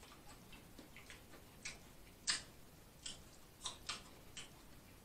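Faint close-up chewing: irregular crisp crunches and mouth clicks, a few each second, the loudest a little over two seconds in.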